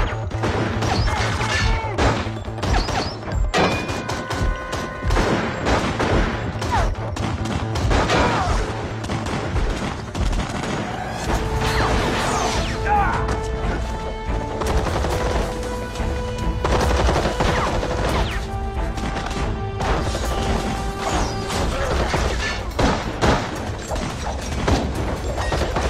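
Action-scene soundtrack of a TV drama: bursts of gunfire and smashing crashes and impacts over a dramatic music score, with sustained musical tones building through the middle.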